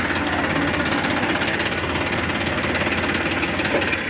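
Tractor diesel engine running steadily up close, with a fast, even chugging beat.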